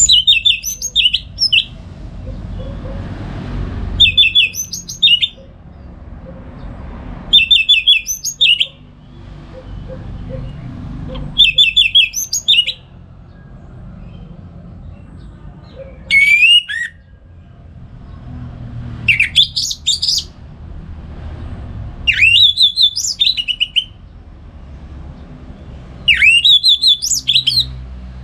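Orange-headed thrush singing its full, loud song (ngeplong) in phrases of quick warbled and slurred notes. Each phrase lasts about a second and a half and comes back every three to four seconds, eight times, over a low steady background rumble.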